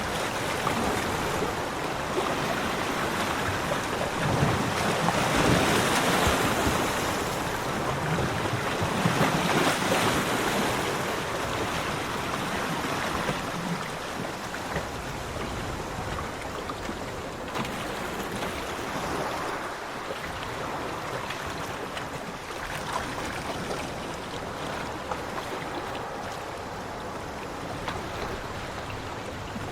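Ocean waves breaking on a beach: the surf swells twice, about five and ten seconds in, then settles into a steadier, softer wash.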